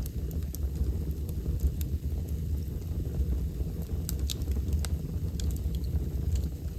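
Wood fire burning in a fireplace, with scattered sharp crackles and pops, a small cluster of them about four to five seconds in, over a steady low rumble.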